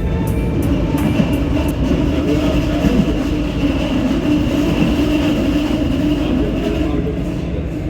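Brno tram running along its rails: a steady low rumble with a steady whining tone over it.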